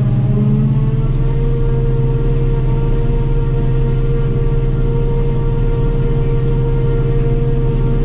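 Self-propelled forage harvester running under load while chopping corn: a steady engine and machine drone with a strong low hum and a higher whine. The pitch sags briefly right at the start and recovers within about a second.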